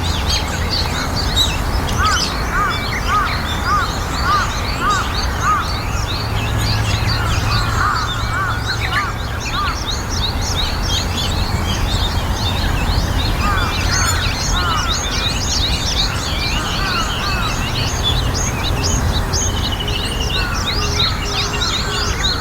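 Several wild birds calling at once: a dense stream of short, high chirps, with runs of lower, repeated arched notes, over a steady low background rumble.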